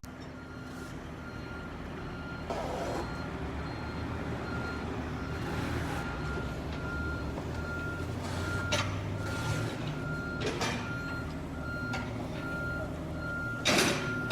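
Reversing alarm of a heavy vehicle on a demolition site, beeping at one pitch at an even rate over the low running of its diesel engine. Several short knocks and clatters of demolition debris come through, the loudest near the end.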